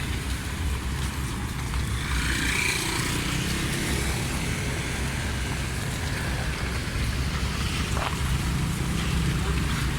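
Low, steady engine rumble with a mix of busy background noise over it.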